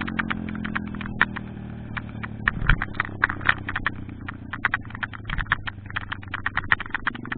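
Small single-cylinder pitbike engine running at low revs after slowing, with a dense, irregular clatter of sharp clicks and rattles over it.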